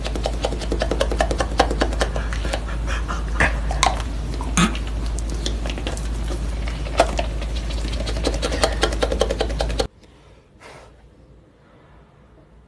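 A dog eating, with rapid crunching and clicking of chewing over a steady low hum. It cuts off abruptly near the end, leaving a quiet stretch with one brief rustle.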